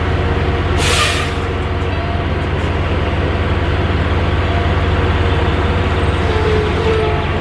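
Semi-truck's diesel engine running steadily, with a short hiss of air about a second in, like the truck's air brakes releasing.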